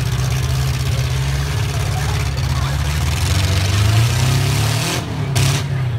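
Four-cylinder demolition derby cars' engines running and revving together in the arena, swelling around four seconds in.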